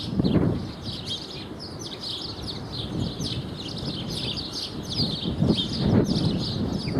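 Several small birds chirping continuously in quick, high, downward-sliding notes, overlapping one another. A low rumbling noise swells briefly at the start and again near the end.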